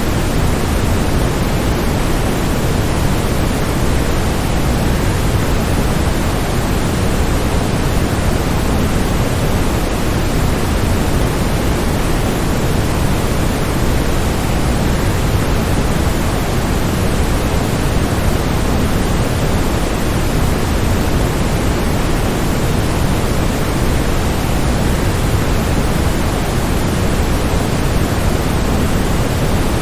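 Continuous, even rush of a waterfall, strongest in the low end and unchanging in level, with no splashes or other events standing out.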